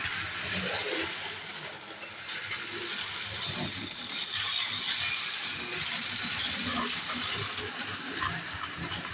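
Marx Mercury tin-plate toy train running on its track: a steady rattling hiss of wheels on the rails, with scattered small clicks.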